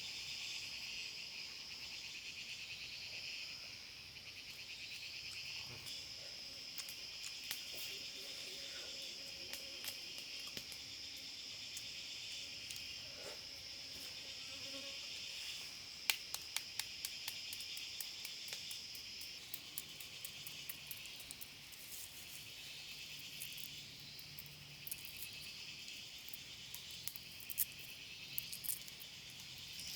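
Steady high-pitched chorus of insects, like crickets or cicadas, with scattered sharp clicks and taps from about seven seconds in, thickest a little past the middle.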